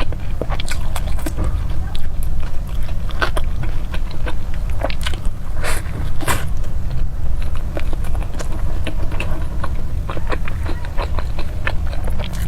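Close-miked chewing and biting of a grilled chicken-thigh burger: irregular wet mouth clicks and smacks. A steady low rumble runs underneath.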